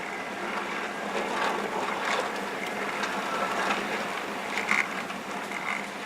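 Blizzard wind rushing in gusts, a steady noise that swells and eases every second or so. A brief high-pitched squeak sounds near the end.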